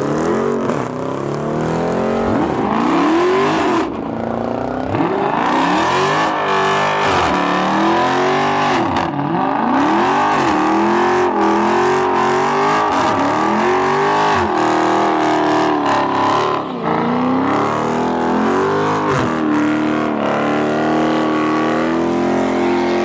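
A car engine revving hard again and again, its pitch climbing and falling about every one and a half seconds, over a steady hiss of spinning tyres: a burnout.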